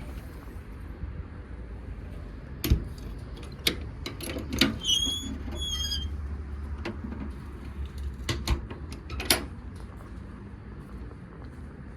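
Knocks and clicks from a fire truck's compartment doors and latches being handled, with two short high squeaks midway, over a low steady rumble.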